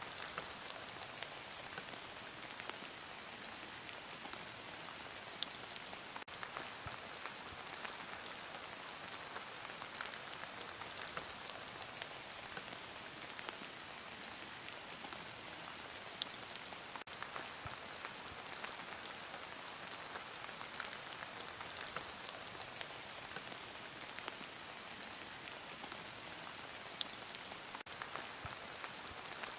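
Heavy rain falling steadily: an even hiss with scattered sharper ticks of single drops.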